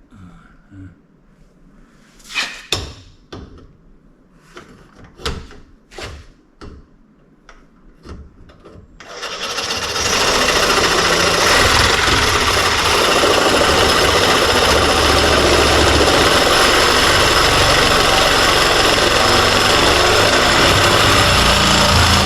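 Loud, steady run of a power tool, starting about nine seconds in, after a few seconds of scattered knocks and clatter of parts being handled.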